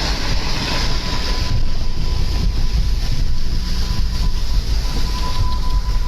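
Strong wind buffeting the microphone: a loud, rumbling rush. A thin steady tone sounds from about a second in.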